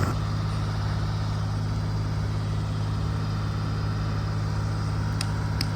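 Compact excavator's engine running steadily at idle, a constant low hum, with two faint ticks near the end. The machine had not been running right.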